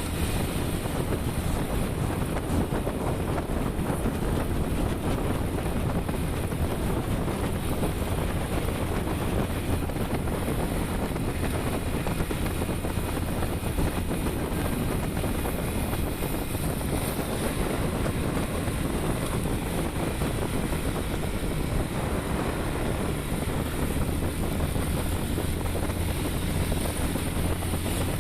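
Riding on a motorbike: steady wind rushing over the microphone, with the engine and road noise running evenly underneath.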